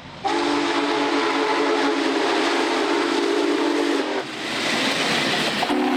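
Union Pacific Big Boy 4014's chime steam whistle sounding over the hiss of the passing steam locomotive. One long blast of about four seconds is followed by a second blast that starts near the end.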